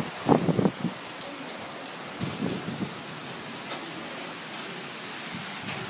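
Heavy rain pouring down in a thunderstorm, a steady hiss of rain falling on pavement, with a few short louder sounds in the first second.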